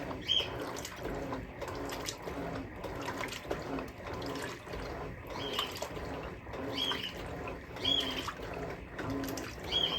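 Electrolux LM08A top-load washing machine agitating a load of towels with its dual-action agitator, water sloshing in a steady surge about once a second. A short high squeak comes on some of the strokes.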